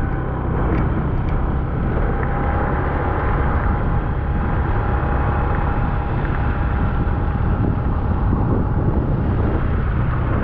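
Motorcycle engine running steadily under way, with the rush of wind and road noise around it.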